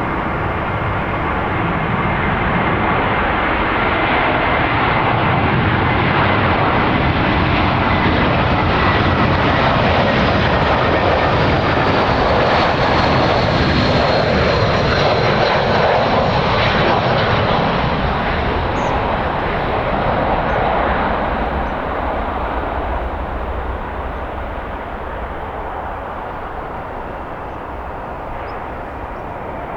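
Jet airliner's engines passing close by: a loud roar that builds to a peak about halfway through and then fades, with a high whine whose pitch slowly falls.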